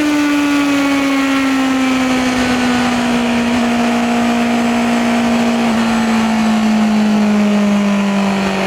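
2026 Honda CBR650R's inline-four engine and exhaust, its note falling slowly and steadily as the bike rolls off and slows.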